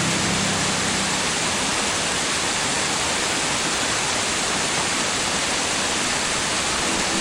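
Mountain valley stream rushing steadily, a loud, even rush of water.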